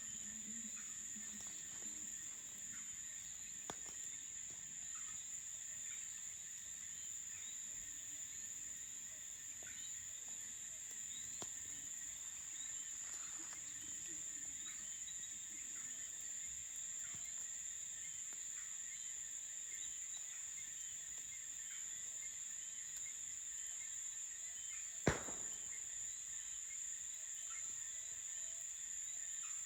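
Crickets chirping in a steady high-pitched chorus over faint scattered crackling of a campfire, with one sharp loud pop near the end.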